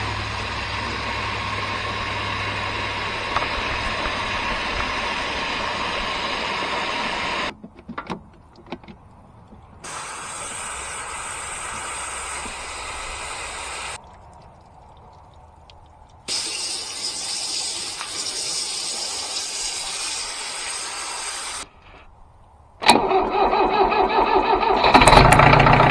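Steady hissing in three spells of several seconds each, with short pauses between, as the tractor's dirt-clogged radiator is cleaned out. Near the end the tractor engine starts and runs.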